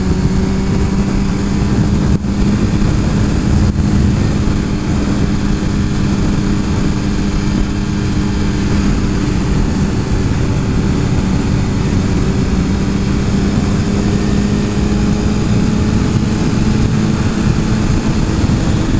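Motorcycle engine running at a steady cruise, its pitch holding nearly level, under heavy wind rush on the microphone.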